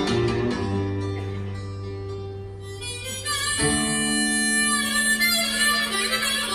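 Harmonica playing long, held chords over a low sustained accompaniment note, shifting to a new chord about three and a half seconds in.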